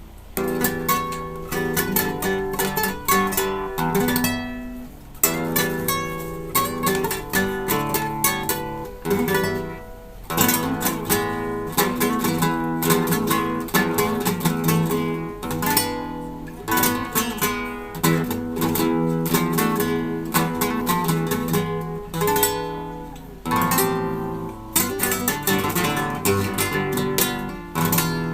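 Solo acoustic guitar played with fast plucked runs and sharp strummed chords, in a flamenco-like style.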